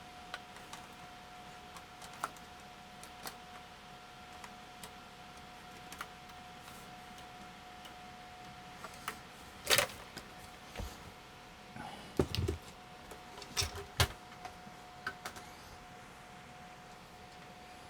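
Scattered sharp clicks and knocks of small hard objects being handled, clustered and loudest in the second half, over a faint steady high whine.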